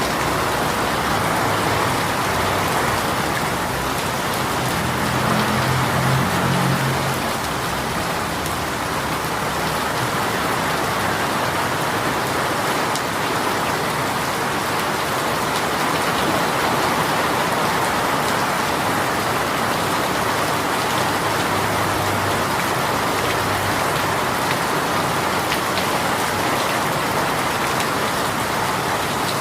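Heavy rain shower pouring steadily, a dense even hiss of raindrops on surfaces. A faint low hum comes in briefly about five seconds in and again past twenty seconds.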